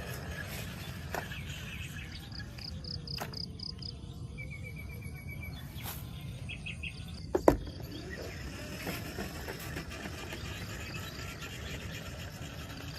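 Outdoor background with a steady low rumble and short runs of rapid, evenly pulsed high chirps from insects or birds. A sharp double click about seven and a half seconds in is the loudest sound.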